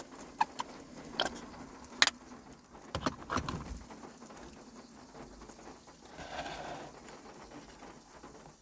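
Scattered sharp clicks and light knocks of food being put together by hand in a van, with a steady patter of rain on the roof underneath.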